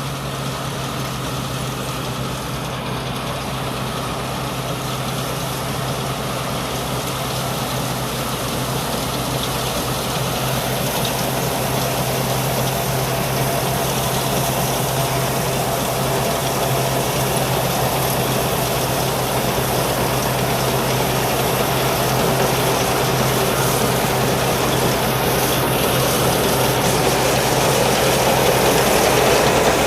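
Combine harvester's Isuzu 6M61 six-cylinder diesel engine running steadily, with the clatter of the machine working, getting gradually louder.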